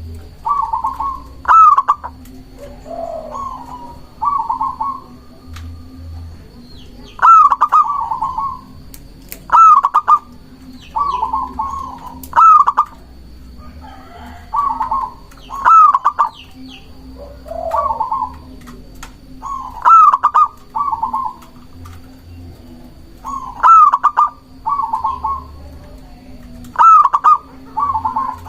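Zebra dove (perkutut) cooing its song over and over. Short phrases of two or three clipped notes come about every one to two seconds, over a faint steady hum.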